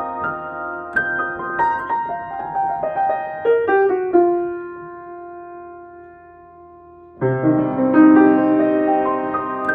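Solo piano improvising: a run of notes, then a chord left to ring and fade for about three seconds, before a fuller, louder chord comes in about seven seconds in.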